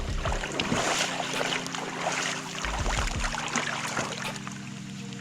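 Water splashing and dripping as a freshly landed king salmon is handled in and over the river, with a few low thumps near the start and about three seconds in.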